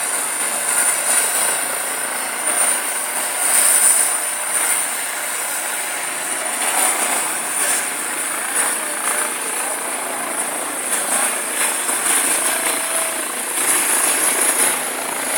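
Helicopter running, a steady engine-and-rotor noise with a thin, steady high whine.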